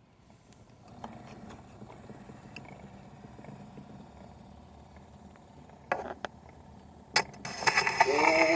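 Surface noise of a 1920s Columbia 78 rpm shellac record running in its lead-in groove: a steady hiss and low rumble with scattered crackles and a few loud pops. Near the end, a voice starts singing the opening of a lined hymn.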